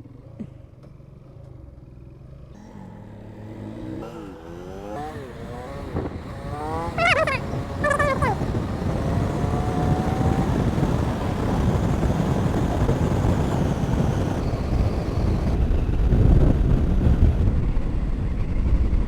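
Motorcycle accelerating through the gears: the engine pitch climbs and drops back with each shift between about 4 and 8 seconds in. After that a rush of wind on the microphone grows louder as the bike gathers speed.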